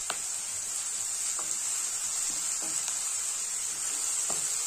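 Chopped onions and ginger-garlic paste sizzling in hot oil in a kadai, stirred with a wooden spatula that gives a few light scrapes.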